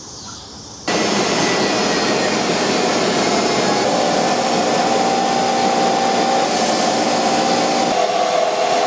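The CNC machine's wood-router spindle switches on about a second in and runs steadily with a high whine and a few steady tones, its pitch shifting slightly near the end.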